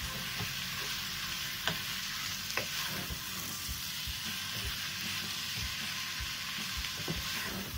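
Chicken pieces sizzling in a masala in a nonstick pot as a wooden spatula stirs them, with a steady frying hiss and scattered sharp knocks of the spatula against the pot.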